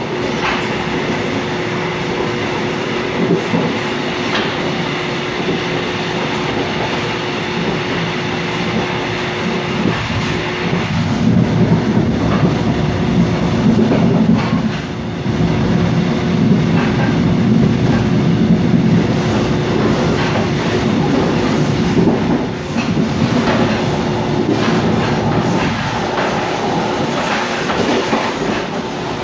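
Mugunghwa-ho passenger train heard from inside the carriage while running along the line: a continuous rumble of the wheels on the track with a steady low hum, growing louder about a third of the way in.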